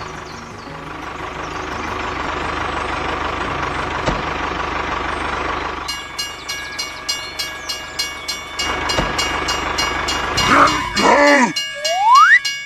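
A steady mechanical running noise for about six seconds, then a sudden change to a rhythmic clacking at about two beats a second over steady tones. Near the end comes a short pitched call and a rising whistle.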